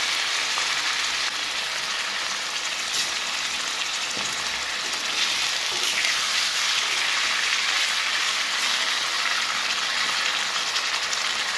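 Marinated chicken gizzards sizzling in a hot stainless-steel frying pan, a steady hiss; a wooden spoon stirs them about halfway through.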